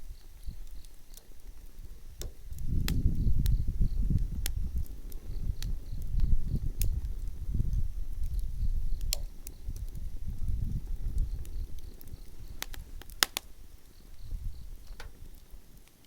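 Wood campfire burning: sharp crackles and pops from the wood, scattered irregularly, over a low rumble of the flames that swells and fades.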